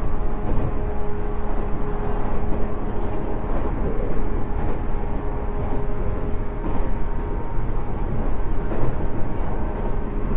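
107 series electric train running between stations, heard from inside the car: a steady rumble of wheels on rail with steady whining tones.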